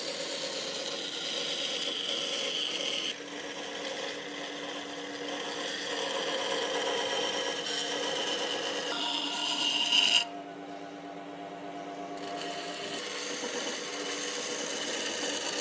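A power tool running against wood with a steady motor tone and a rasping, rubbing sound whose pitch shifts as it works. It drops abruptly about ten seconds in and picks up again roughly two seconds later.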